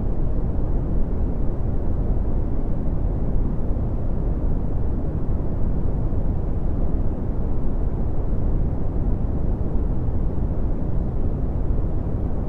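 Red (Brownian) noise: a steady, deep rumbling hiss with most of its energy in the bass, thinning out toward the treble.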